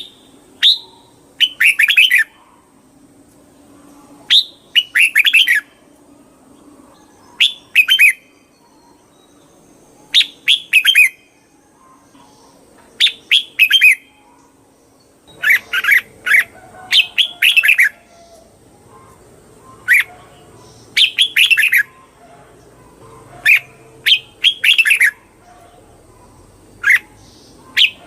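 Red-whiskered bulbul singing: short, loud phrases of a few quick chirping notes, repeated every two to three seconds.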